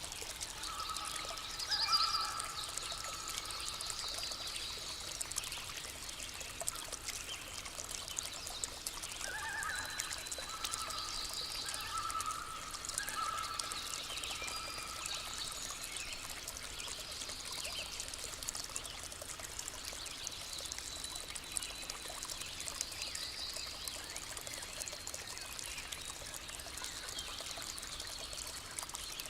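Water trickling steadily in a small stream, with birds calling over it. Short whistled phrases come about a second in and again from about nine to thirteen seconds, with high chirps scattered throughout.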